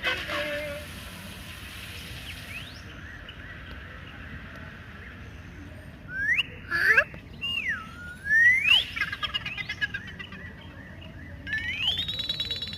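Bird-like whistled chirps sliding up and down in pitch, a few of them starting about six seconds in, then a longer rising whistle near the end, over a faint steady hiss.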